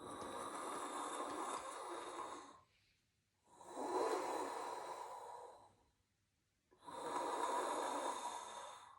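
A person breathing slowly and audibly through a constricted throat, Ujjayi-style 'ocean-like' breath: three long hushing breaths, each about two seconds, with short pauses between.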